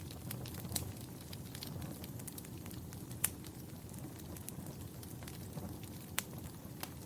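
Wood fire burning in a fireplace: a steady low rumble of flames with irregular crackles and sharp pops, a few of them louder, about a second in, near the middle and near the end.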